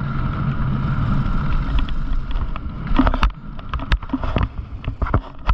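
Mountain bike rolling fast down a dirt trail: steady rumble of tyres and wind on the camera microphone, then from about three seconds in a run of sharp rattles and knocks as the bike goes over rough ground.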